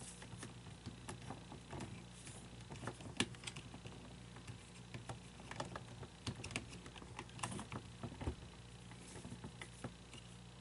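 Irregular light clicks and taps of small plastic animatronic parts and a tool being handled, as a gear is tried against a shaft, over a steady low hum.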